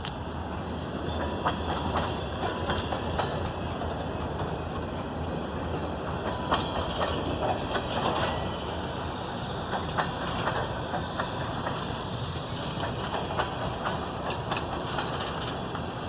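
Loaded freight cars of a salt train rolling past: a steady rumble of steel wheels on rail with frequent clicks as the wheels cross rail joints.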